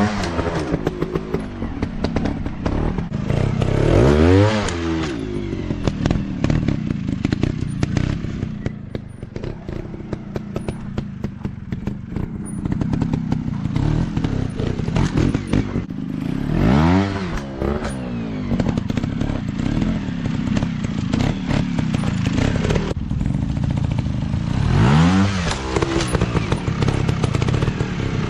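Dirt bike engines running, with the pitch climbing and falling back about four times as the throttle is opened and closed, amid a steady engine drone and scattered clicks.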